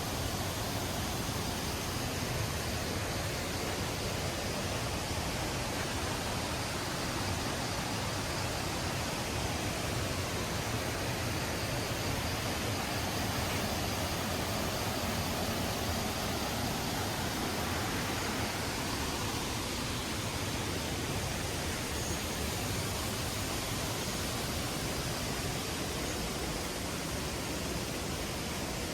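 Steady rushing of falling water from a large waterfall, an even roar that does not change.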